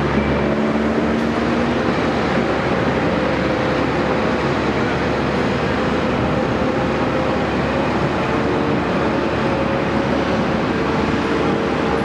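Caterpillar 329E hydraulic excavator running steadily, a constant, unbroken machine noise with a faint hum.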